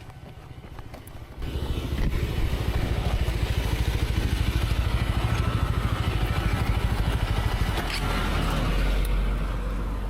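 Motorcycle engine running while riding, starting abruptly about a second and a half in and holding steady with a fast, rough flutter. It settles into a steadier low hum near the end.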